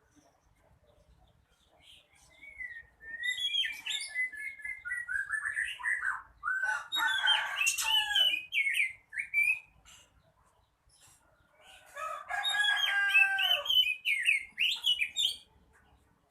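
Oriental magpie-robin (kacer) singing in two long phrases of varied whistles, glides and harsh notes, with a short pause between them.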